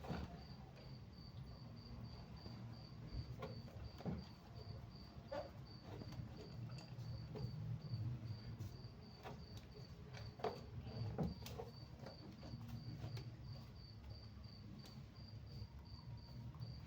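Faint, steady chirping of a cricket, about three chirps a second, with a few light knocks and clicks scattered through.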